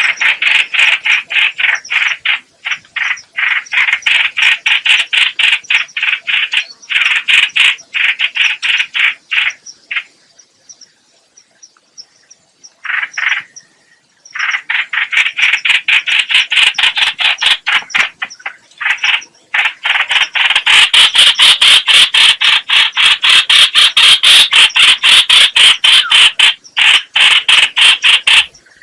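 A bird known in Vietnamese as trao trảo (chao chảo, hoành hoạch) calling in long runs of rapid, rattling notes, about four a second. It is a lure-call recording. The calls break off for a few seconds midway, then come back faster and louder in the second half.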